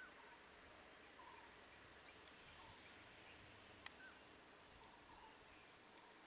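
Near silence, with faint bird calls: a few brief high chirps and some soft, short lower chirping notes scattered through it.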